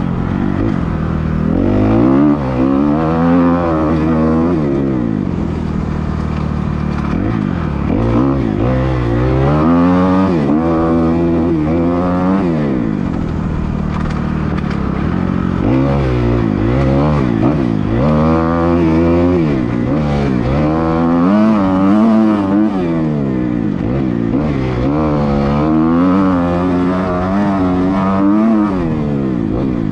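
Dirt bike engine revving hard, its pitch climbing and dropping back over and over, the way it goes when a bike is ridden around a motocross track.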